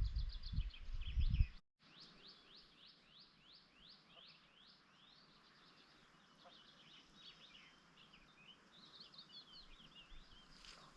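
A low rumble that cuts off suddenly about a second and a half in, then songbird song: a run of about a dozen downward-sweeping notes, two or three a second, and a quicker, busier twittering phrase near the end.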